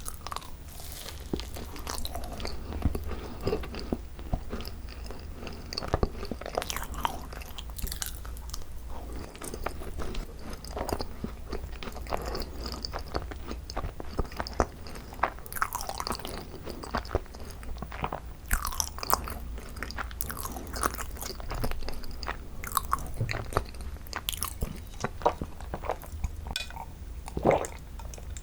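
Close-miked chewing of cream-filled fat macarons (ttungcarons): the crisp shells crunching and the soft cream making wet, sticky mouth sounds in irregular bites and chews.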